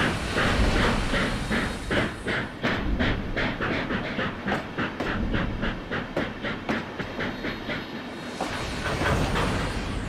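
A train running, with a fast, even beat of about three strokes a second that thins out late on, and a hissing rush near the end.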